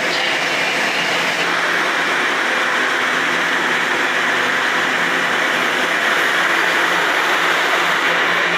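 Toronto Rocket subway train moving along a station platform: a loud, steady rush of wheels on rail and traction motors, with a faint high whine.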